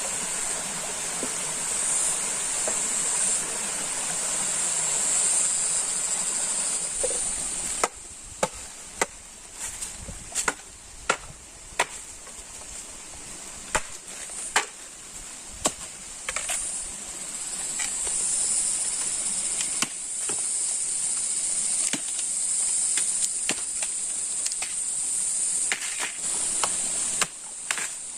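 Forest ambience: a steady rushing hiss and a high, constant insect drone. In the middle this gives way to a run of sharp, irregular knocks, about one every second, before the hiss and the insect drone return.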